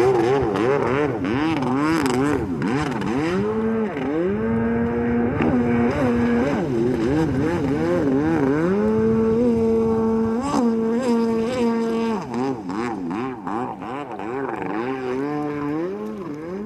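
An engine revving up and down quickly and over and over, its pitch rising and falling several times a second, settling twice into a steady pitch for a few seconds.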